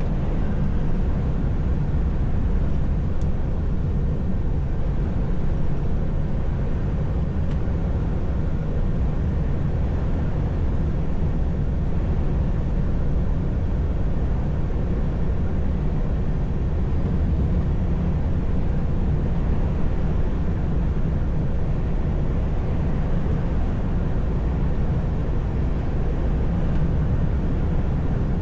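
Steady drone of a moving truck heard from inside the cab: engine and road noise, with most of the sound low and a faint steady hum higher up, unchanging throughout.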